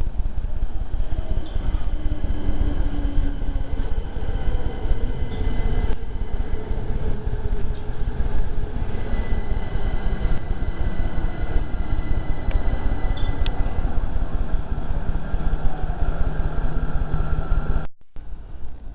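A train moving through the station: a steady loud rumble of wheels on rail with a faint high whine above it. Near the end the sound drops off abruptly.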